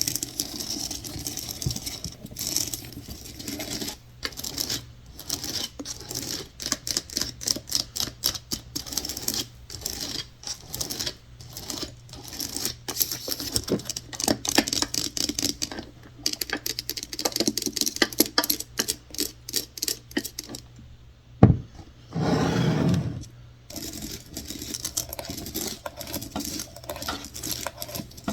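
ASMR fingernail tapping and scratching on wood and other hard surfaces, in quick runs of light taps with short pauses. About 21 seconds in there is one sharp knock, followed by a louder, noisier scraping sound lasting about a second and a half, then lighter tapping again.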